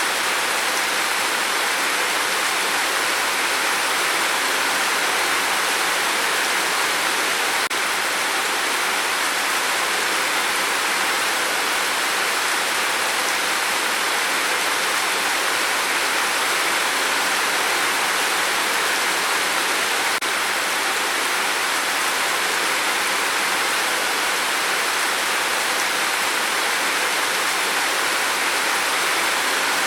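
Rain falling steadily on a tin roof: a dense, even hiss with no separate drops standing out.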